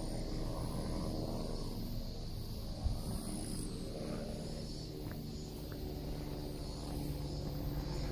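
Outdoor ambience: insects chirping steadily under a low, even rumble, with one soft thump about three seconds in.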